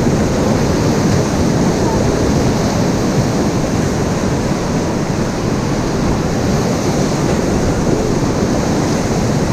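Rushing white-water river: a steady, loud wash of moving water, with wind buffeting the microphone.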